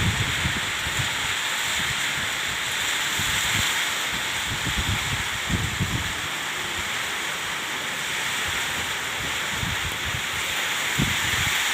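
Steady rushing noise of wind and water outdoors, with wind buffeting the microphone in a few short gusts, about halfway through and near the end.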